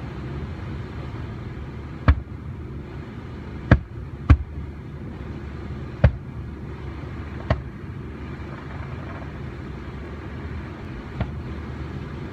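Fireworks going off at a distance: six sharp bangs at irregular intervals, two of them less than a second apart, over a steady low rumble.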